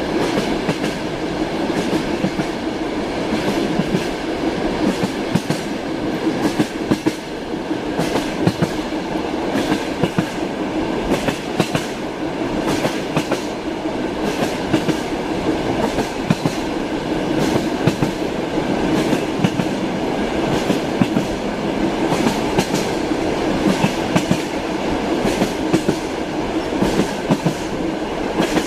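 Train wheels clattering over rail joints, heard as a steady rumble with irregular clacks throughout, as from a moving railway carriage.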